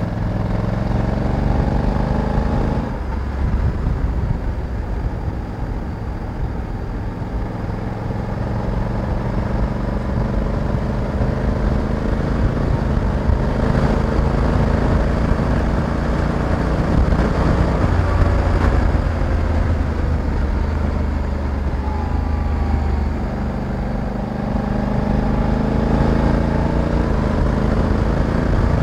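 Honda Africa Twin 1100 DCT's parallel-twin engine running under way on a winding road, its pitch slowly rising and falling as the rider speeds up and eases off, with a brief drop about three seconds in. A steady rush of wind runs underneath.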